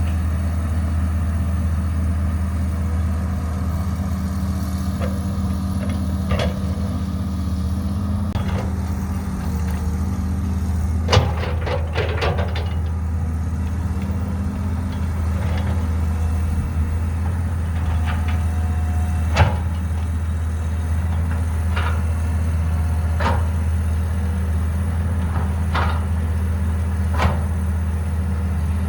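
Caterpillar 312B excavator's diesel engine running with a steady low drone. Sharp knocks come every few seconds, with a quick run of several knocks about eleven seconds in.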